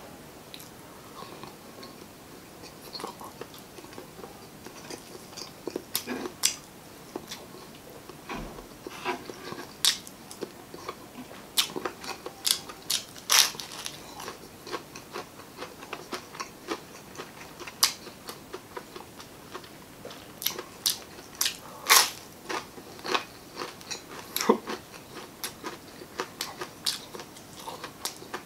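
Chewing and biting of crispy fried chicken skin and adobo chicken gizzards: irregular crunches and wet mouth clicks, several a second at times.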